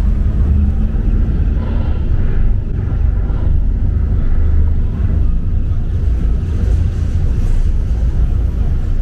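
Loud, steady low rumble with a weaker hiss above it, fading out just after the end.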